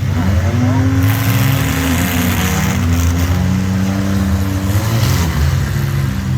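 Several demolition-derby mini trucks, vans and SUVs running together, their engines revving up and dropping back over a steady hiss.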